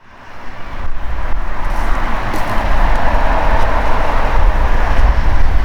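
Steady outdoor rushing noise that fades in over the first second, with a low rumble underneath.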